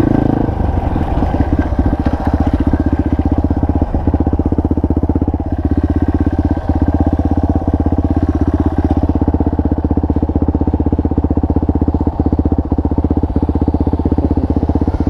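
Single-cylinder four-stroke enduro motorcycle engine running at a steady speed, with a fast, even exhaust pulse and a few light knocks.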